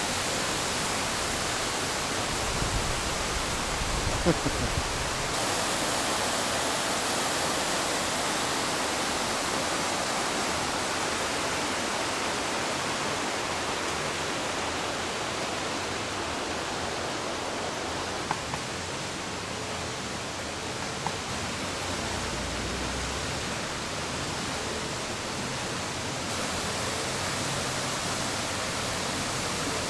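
Aber Falls waterfall: a steady rush of falling water, with a few brief low rumbles.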